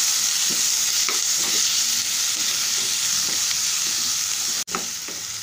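Sliced onions, garlic and chillies sizzling as they fry in butter in a nonstick wok, stirred with a spatula. The sizzle cuts out for an instant near the end and returns a little quieter.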